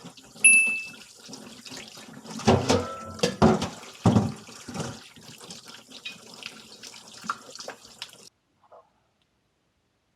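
Water running from a kitchen tap into a sink, with a few loud clatters between about two and a half and four and a half seconds in. The sound cuts off suddenly about eight seconds in.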